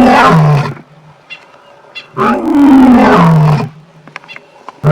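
African lion roaring: long, loud moaning roars that fall in pitch, one tailing off near the start, a full one in the middle, and another beginning at the end.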